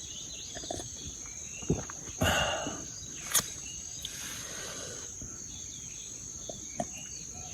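Insects chirring steadily in a single high, unbroken tone, with a few scattered short knocks and clicks from handling things close by, the loudest about two seconds in.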